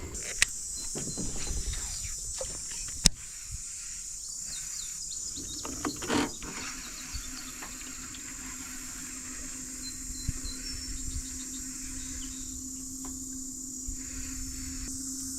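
Riverside ambience: a steady high drone of insects with a few faint bird chirps and a couple of sharp knocks. A low steady hum comes in about halfway through.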